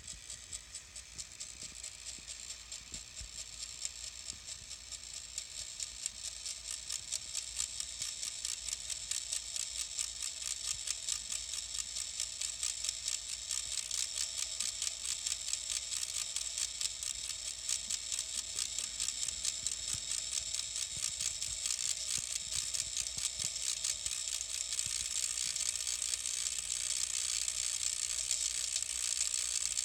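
Denon X1800 DJ mixer emitting a faulty buzzing noise: a rapid, even, high-pitched ticking buzz that slowly grows louder. It is the sign of an internal hardware fault that came on after boot.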